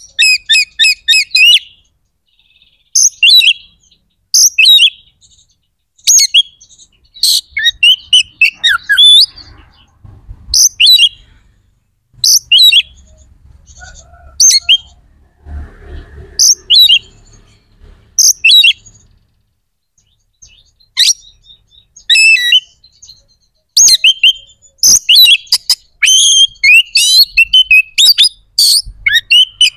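Oriental magpie-robin singing loudly in short, varied phrases of quick whistled notes and trills, separated by brief pauses. The phrases come thicker and almost without a break near the end.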